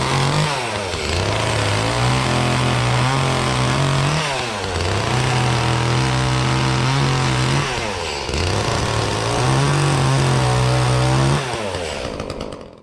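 Echo CS-352 two-stroke chainsaw running at high revs, its pitch dropping sharply and climbing back three times, then falling off in level near the end.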